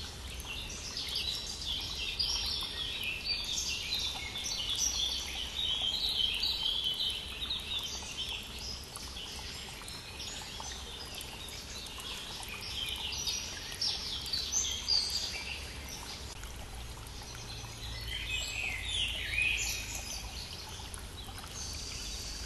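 Many songbirds singing at once in spring, over the steady rush of a small stream.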